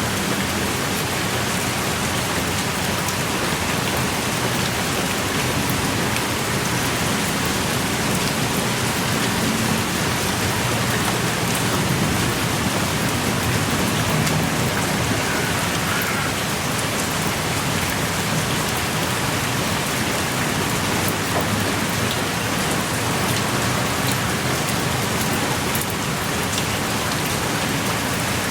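Heavy rain pouring steadily, a dense hiss of drops with fine close patters and splashes throughout.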